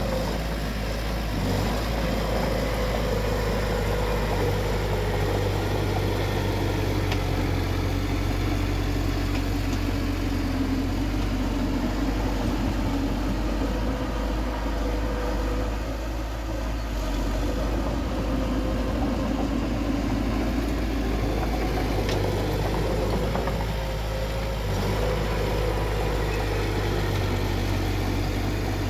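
Bulldozer's diesel engine running steadily, its note easing briefly a couple of times, about midway and again later.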